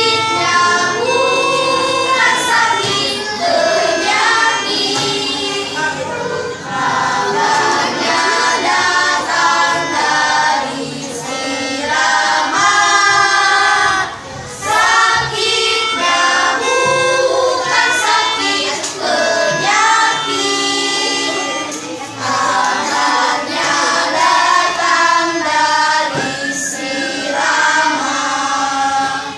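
Primary-school children's choir singing a song, phrase after phrase, with brief breaks between phrases.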